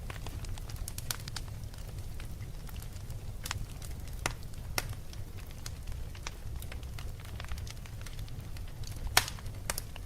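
Fire crackling: irregular sharp pops and snaps over a low steady rumble, with one louder pop near the end.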